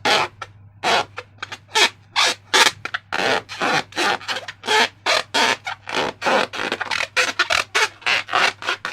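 Slime squelching and squishing by hand: a fast, irregular run of short, wet squishes, several a second.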